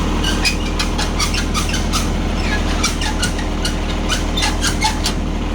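Farm tractor engine running under load with a steady whine, while brush crackles and snaps in many sharp clicks as the loader lifts it off the trailer.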